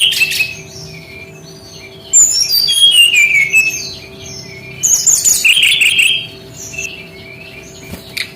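SRDC songbird (sikatan rimba dada coklat) singing in loud bursts of whistled notes and rapid trills. There are three phrases about two and a half seconds apart, some notes running downward in pitch, with softer calls between them.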